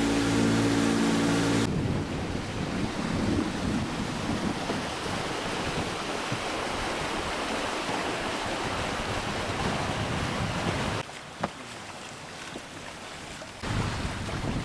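Wind buffeting the microphone and water rushing past a moving boat, opening with a steady engine hum for a couple of seconds. The noise drops abruptly about eleven seconds in, with a single click, and rises again near the end.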